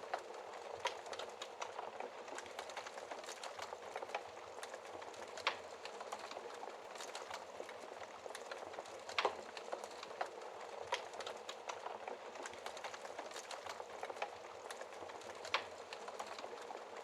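Wood fire burning in a fireplace: a steady crackle of small snaps over a soft hiss, with a few louder pops.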